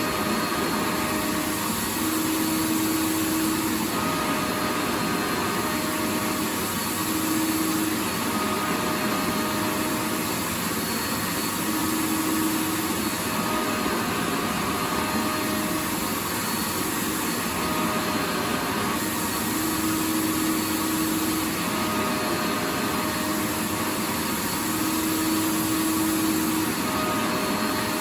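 Vacuum cleaner running continuously: a steady, even rushing hiss with a faint motor hum whose tones fade in and out every few seconds.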